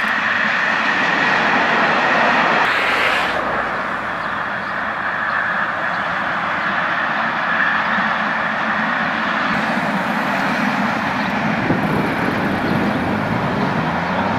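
Zentralbahn train hauled by an HGe 4/4 electric rack locomotive rolling past along the track: a steady noise of the train running. The sound changes abruptly about three seconds in, and a low hum rises in pitch near the end.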